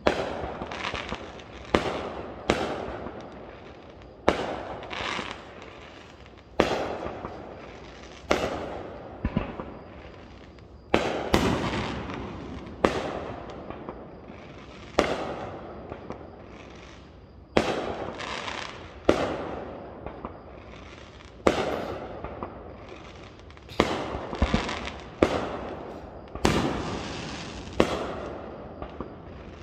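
Aerial firework shells bursting: a sharp bang every second or two, sometimes two in quick succession, each fading out over a second or so.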